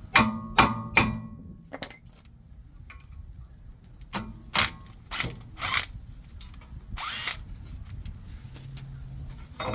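Hammer striking a Phillips bit set in a rusted brake rotor retaining screw: three quick, sharp, ringing metal blows in under a second, meant to break the rust loose. More scattered knocks and metal handling sounds follow.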